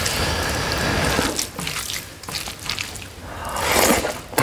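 Close-miked wet chewing and mouth sounds of a person eating rice and pork curry by hand, with a louder wet stretch shortly before the end.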